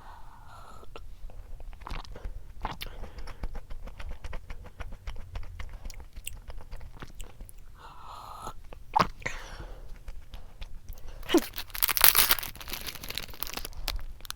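Close-up chewing and crunching of a snack, many small crisp clicks throughout, with a louder burst of noise about twelve seconds in.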